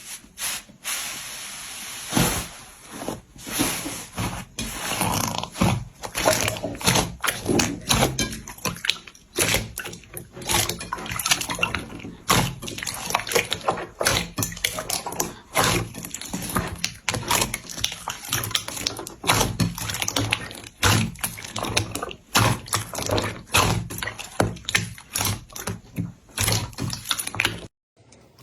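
Slime being squeezed and worked by hand, giving a fast, irregular run of wet clicks and squelching pops. It cuts off suddenly near the end.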